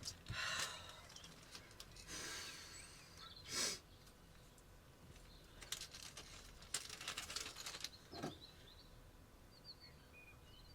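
Quiet rustling and handling of objects in a small shed, a few short bursts over several seconds, with faint bird chirps outside.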